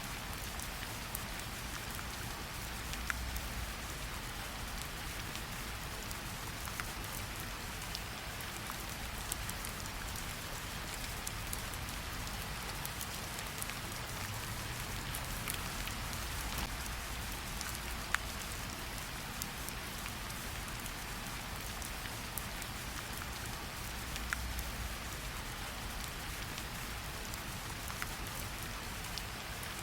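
Steady gentle rain falling on tree leaves, a soft even patter with individual drops ticking through it, now and then one louder drip.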